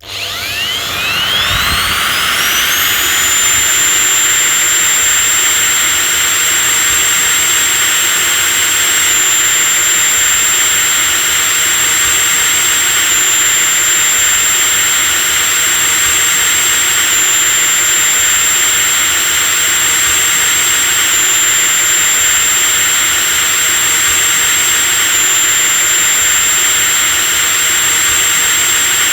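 Electric drill starting up: its motor whine rises quickly in pitch over the first few seconds, then the drill runs steadily at full speed with a high, even whine over a hiss.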